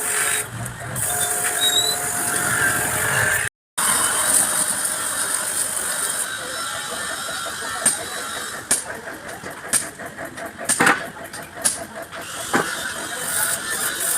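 Workshop noise from engine repair work: a steady background hiss with scattered sharp clicks and knocks in the second half.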